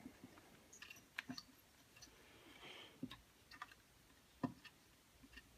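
Faint, scattered clicks and taps of small parts being handled and fitted as a carburetor stack and gasket are worked onto a Husqvarna 181 chainsaw, with a brief scrape in the middle and one sharper click about three quarters through.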